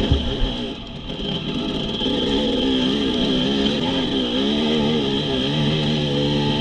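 Dirt bike engine running while ridden off-road, its revs rising and falling continually. There is a sharp knock right at the start.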